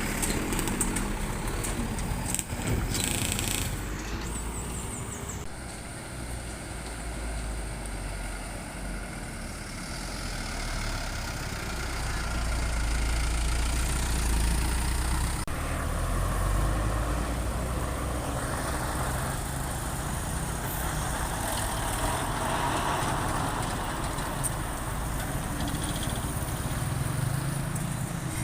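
Truck engine running at low speed, swelling a little louder about halfway through, with a few short clicks early on.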